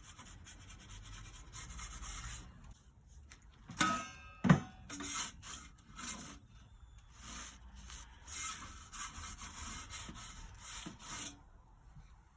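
Pizza peel scraping and rubbing across the pizza oven's baking stone in short repeated strokes as the pizza is turned, with a sharp knock a little before halfway.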